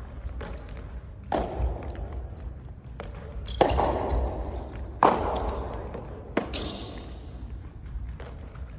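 Soft tennis rally: a rubber ball struck back and forth by rackets, with four loud hits about a second and a half apart and fainter ball bounces between them, each ringing in a large hall. Short high squeaks, like shoes on a court floor, come between the hits.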